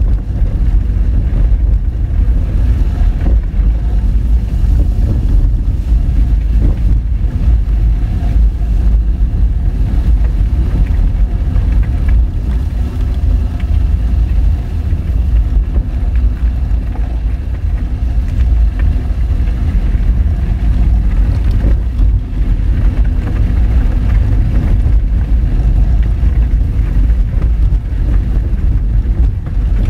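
Small hatchback car driving slowly over a rough gravel and rock dirt road: a steady low rumble of engine and tyres on loose stones, with a few brief knocks from the rough surface.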